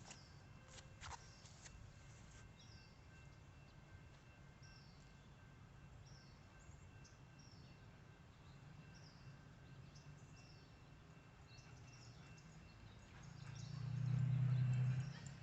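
Small birds chirping, short high calls repeated every second or so over a faint low hum. Near the end a low rumble swells up and fades.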